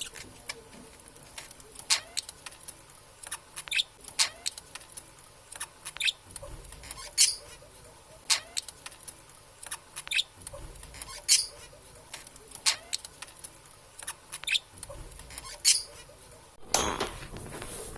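Budgerigars chirping and chattering in short, sharp, high-pitched calls, roughly one every second, with a longer, louder call near the end.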